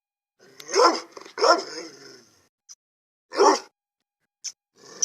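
Male Gultair dog barking: two barks close together about a second in, then another after a pause.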